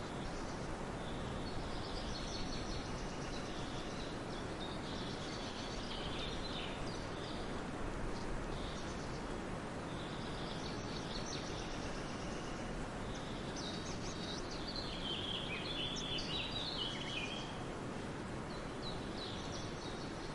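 Small birds chirping and twittering in high, quick bursts every few seconds over a steady background hiss, with the busiest run of calls about two thirds of the way through.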